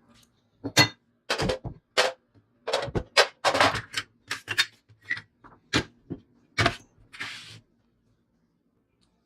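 A run of about a dozen irregular knocks, clicks and clatters, like hard parts being handled or tapped during work on the scooter. A short hiss comes near the end, then the sounds stop.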